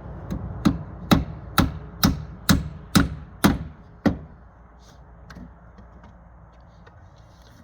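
A hammer striking wood, about eight sharp blows at roughly two a second, stopping about four seconds in.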